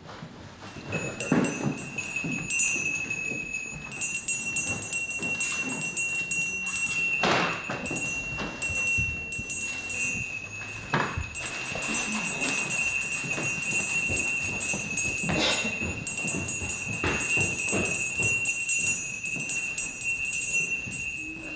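Small bells jingling continuously in a steady high shimmer, with several sharp knocks through it.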